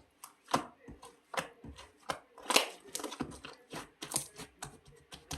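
A run of sharp, irregular clicks and knocks, two or three a second, some louder than others.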